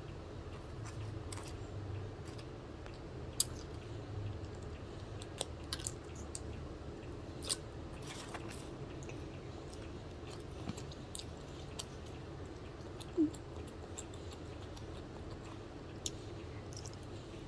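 A person eating pizza with their fingers: close chewing and small mouth sounds with scattered sharp clicks, over a steady low background hum. A short squeak stands out about three-quarters of the way in.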